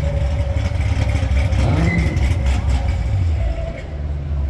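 A car engine running close by, a steady low drone, with a few short clicks in the middle.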